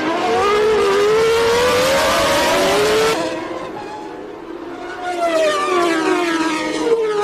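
1990 Formula 1 race cars running at high revs: one engine rising in pitch for about three seconds, then cut off abruptly, followed by another car's engine falling in pitch as it goes by.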